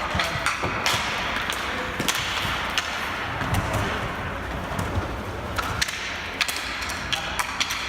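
Ball hockey play: an irregular string of sharp clacks from plastic-bladed sticks striking the ball, the floor and each other, with a few duller thuds, over steady background noise.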